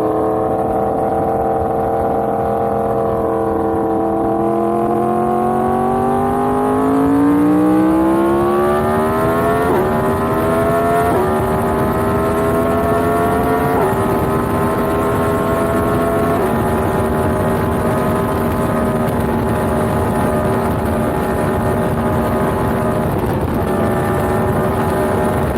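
Yamaha MT-10's crossplane inline-four engine pulling through the gears. Its pitch dips slightly, then climbs for several seconds. It drops at each of four upshifts, about ten, eleven, fourteen and sixteen seconds in, then settles into a steady cruise.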